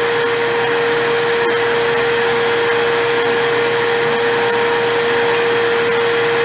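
Corded Hoover upright vacuum cleaner running steadily at full power, a loud whooshing motor noise with a steady whine, metered at about 85 to 87 dB.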